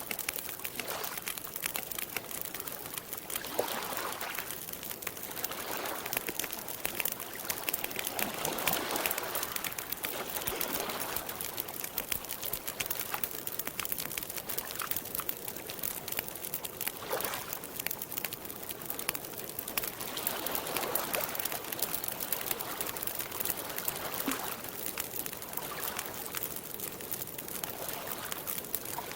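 Wood campfire crackling with many small pops throughout, over soft, rhythmic swells of lake water lapping.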